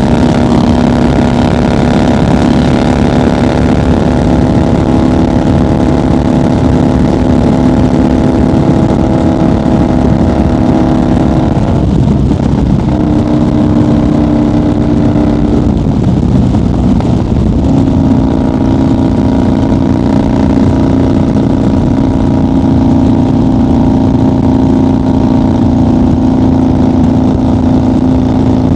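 1990 Harley-Davidson FXR's Evolution V-twin running steadily at highway cruising speed. The engine note breaks up briefly twice around the middle, then settles back into a steady drone.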